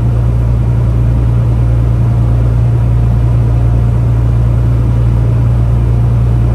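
Steady low drone of a Peterbilt 579 semi truck cruising at highway speed, engine and road noise running evenly.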